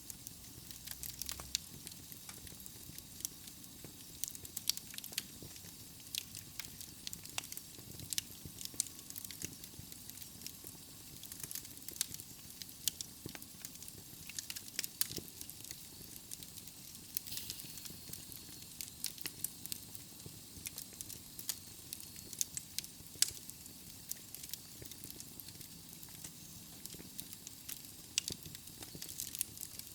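Wood logs burning in a fireplace: irregular sharp crackles and pops over a soft steady hiss.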